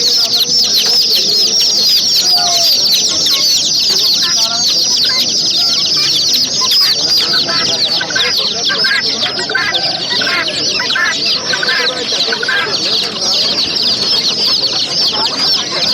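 A brood of chicks peeping continuously, many overlapping high, short chirps that each fall in pitch, with some lower, shorter calls mixed in midway.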